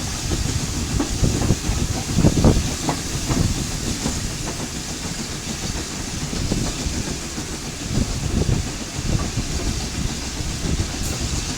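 Steam train running along the line, with wheels clattering in irregular low knocks under a steady hiss.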